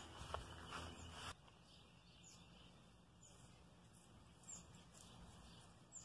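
Near silence: faint outdoor hiss with a few short, high bird chirps spread through it. The first second or so holds a louder rustle with one click, then the sound drops off suddenly.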